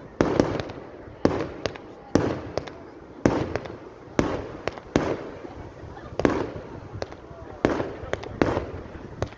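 Fireworks display: a steady series of shells bursting, roughly one bang a second, each trailing off in a rolling echo, with smaller cracks in between.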